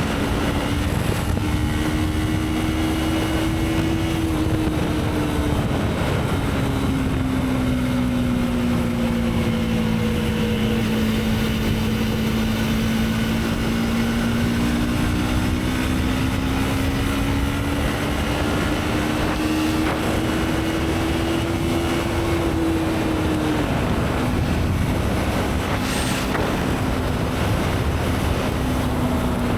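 Motorcycle engine running under way, its pitch climbing slowly with the throttle and dropping sharply twice, about four seconds in and again near twenty-three seconds in.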